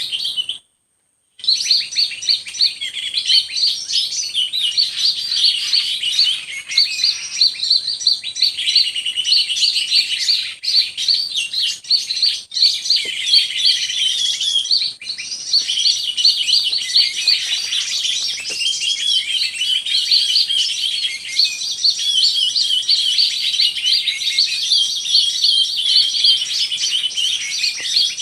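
Songbird singing a fast, unbroken stream of chirps and warbles, with a steady high thin whine beneath. The sound cuts out completely for under a second near the start.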